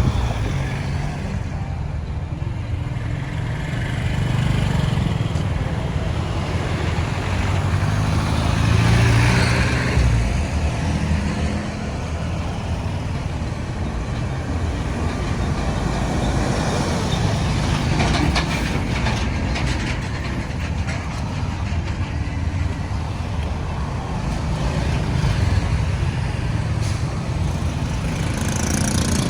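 Road traffic: the engines of passing vehicles run steadily, swelling as one goes by about nine seconds in.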